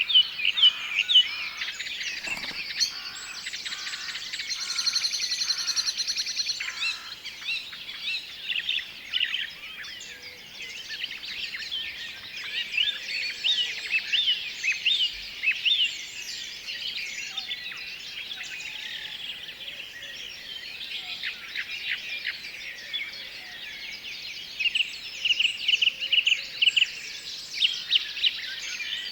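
Several birds singing and calling at once: a dense chorus of quick chirps and short sweeping notes, with a rapid trill about five seconds in and a run of loud repeated chirps near the end.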